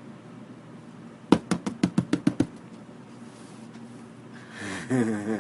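A quick run of about ten sharp clicks or taps, then a brief voice near the end.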